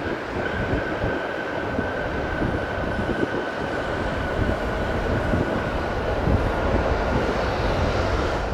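Airbus A350-900's Rolls-Royce Trent XWB jet engines on landing approach: a loud rumble with a steady fan whine that slowly falls in pitch.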